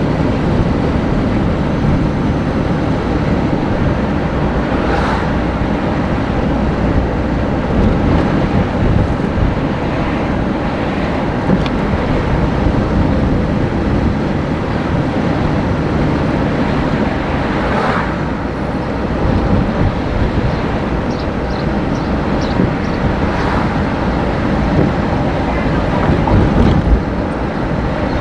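Steady, loud vehicle rumble, heaviest in the low end, with a few brief sharper noises standing out now and then.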